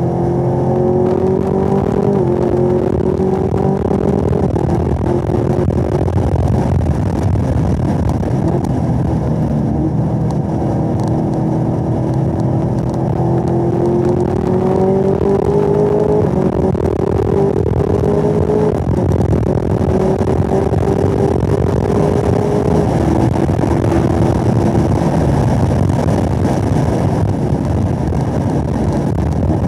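Supercharged 6.2-litre V8 of a Camaro ZL1 with a 10-speed automatic, heard from inside the car at race-track pace. The engine note climbs steadily under acceleration, with a few brief steps and dips as it changes gear, over road and wind noise.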